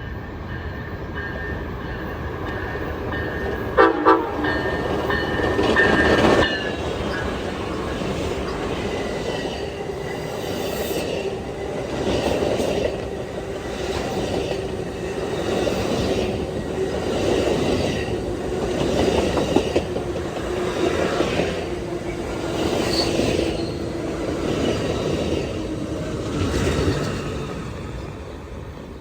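A train horn sounds for about the first six seconds. The train then rolls past with a steady rumble and a regular clatter of wheels over rail joints, fading near the end.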